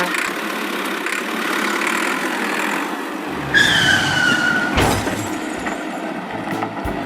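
Cartoon vehicle sound effects: a rushing vehicle noise, then a tyre screech about halfway through that falls slightly in pitch, followed by a sharp thump and low rumbling.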